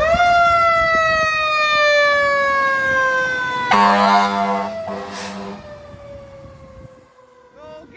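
Fire engine's mechanical siren winding up sharply, then slowly coasting down in pitch. Partway through, the truck's air horn sounds twice, and near the end a fast-wavering electronic siren tone starts.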